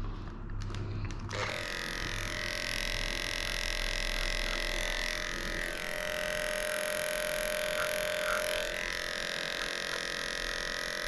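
Electric dog grooming clipper running with a steady buzz, getting much louder about a second and a half in.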